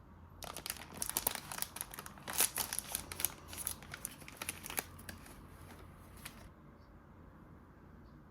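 Crinkling of a snack wrapper or packaging being handled and opened: a dense run of irregular crackles that stops about six and a half seconds in.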